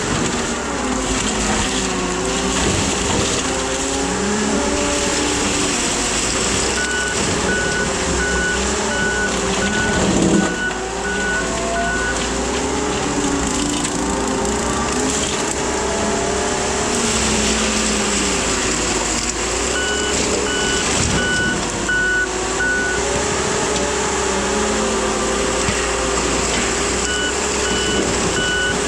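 Case skid steer running with a Shearex mulching head, the engine pitch rising and falling with load. Its backup alarm beeps about twice a second in three spells as the machine reverses.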